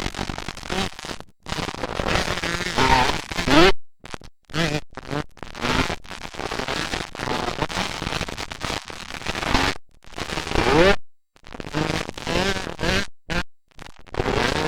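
Dirt bike engines revving at a motocross track, rising in pitch several times with a rough, crackling exhaust note. The sound cuts out abruptly again and again.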